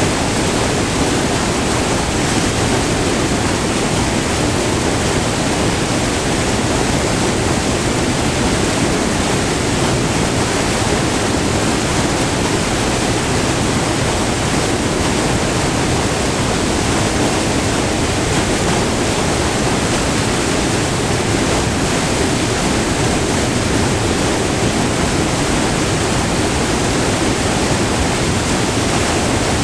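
Whitewater of a short, multi-tiered river waterfall rushing steadily, heard up close: a loud, even roar with no breaks.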